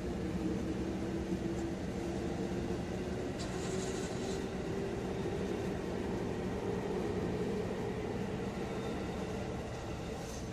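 JR train running at a railway crossing: a steady electric motor hum whose pitch climbs slowly, over an even hiss, with a brief high squeal about four seconds in.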